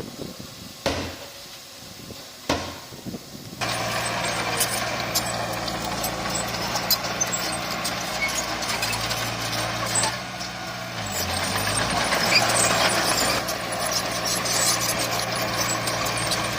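Heavy diesel earthmoving machinery running, a steady engine note under much rattling and clanking. It sets in suddenly about four seconds in, after a quieter stretch with a couple of knocks.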